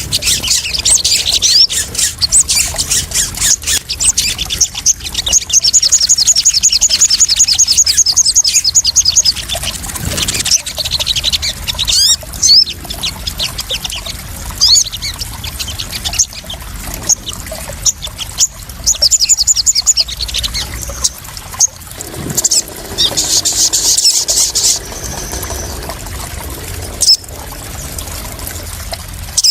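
Sogon birds chirping and calling in quick, high-pitched notes, with a long rapid trill about a quarter of the way in, over splashing, trickling water.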